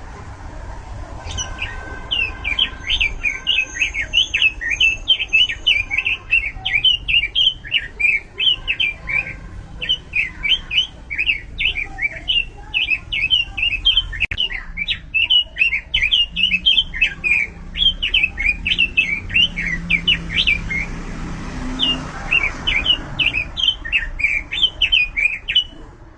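Red-billed leiothrix (Pekin robin, the 'burung robin' of Indonesian bird-keepers) singing a fast, continuous song of quick, sharply sweeping notes, with two brief breaks.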